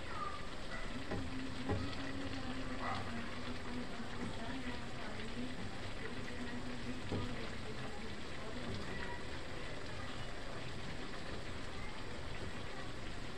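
Vegetables sizzling and simmering in a wok, a steady crackling hiss, with a couple of light knocks from a plastic spatula stirring them.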